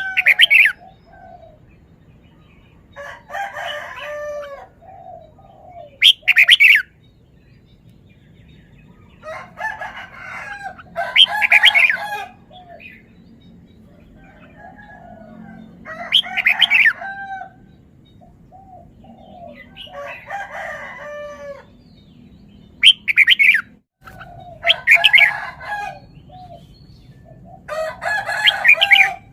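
Red-whiskered bulbul singing: short phrases of bright, quick, up-and-down whistled notes, about ten of them, repeated every two to four seconds.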